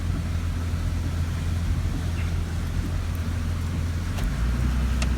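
Low steady rumble of a truck's engine heard from inside the cab, with two brief sharp clicks near the end.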